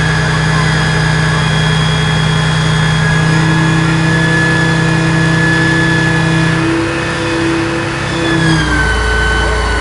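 Diesel engine of a Scania aerial ladder platform fire truck running steadily, its pitch shifting a few times, with a deeper low note taking over near the end.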